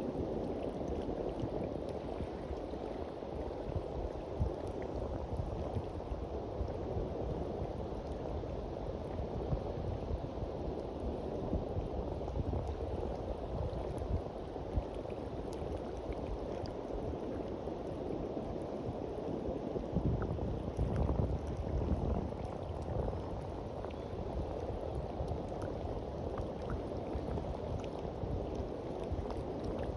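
Sea waves washing onto a beach: a steady, continuous wash of surf, with a louder low surge about two-thirds of the way through.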